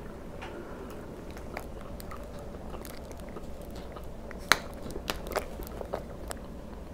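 Close-miked chewing with small wet mouth clicks. About four and a half seconds in there is a sharp loud click, then a run of smaller clicks and crackles as a plastic water bottle is handled and its cap is worked.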